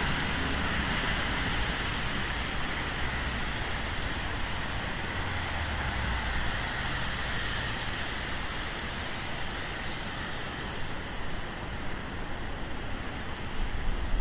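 Steady rain hiss on a wet city street mixed with the tyre swish and low rumble of passing cars. The higher hiss thins out near the end.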